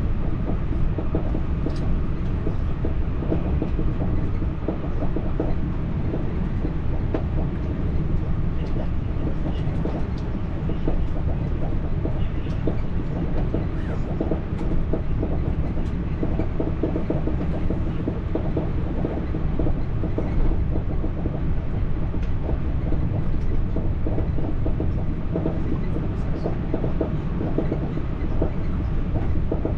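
French TER regional train running, heard from inside the carriage: a steady low rumble with faint clicks from the wheels on the rails.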